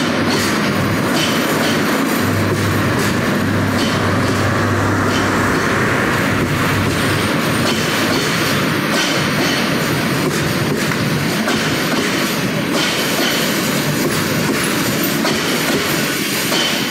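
Passenger coaches of the Upaban Express rolling past the platform as the train pulls out, gathering speed. The wheels give a loud, steady rumble and clatter with scattered sharp clicks, and a low steady hum runs through the first half.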